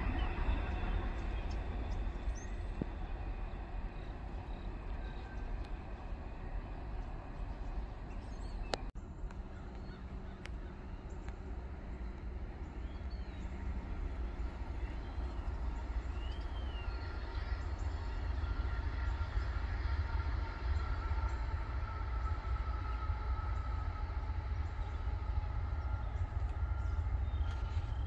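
Steady low rumble of a freight train, with a few faint bird chirps.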